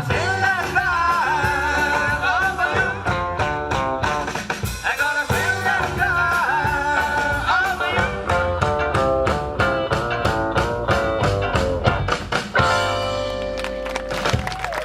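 Live rock and roll band playing with a lead singer: rhythmic guitar chords and drums under a vibrato vocal line. Near the end the rhythm stops and the band holds a final sustained chord.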